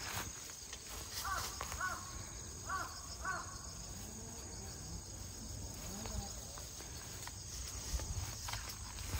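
A bird calling four short times in two pairs, in the first few seconds, over a faint steady insect chirring.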